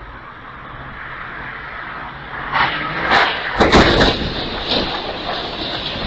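Vehicle collision: road and engine noise builds, then about two and a half seconds in come several loud bangs over a second and a half, the heaviest near the middle, followed by smaller knocks.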